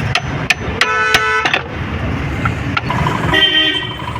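Vehicle horn honking twice, each toot short, about two seconds apart, the second lower in pitch, over a steady low street rumble.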